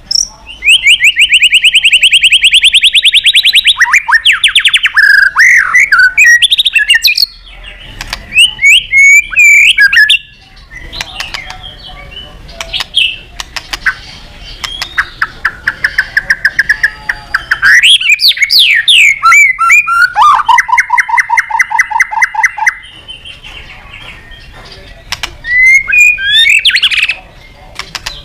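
White-rumped shama (murai batu) singing loudly and energetically: a varied song of fast rattling trills, sweeping whistles and short chirps, broken by brief pauses. It is a male's song of the kind used to call out and provoke a rival.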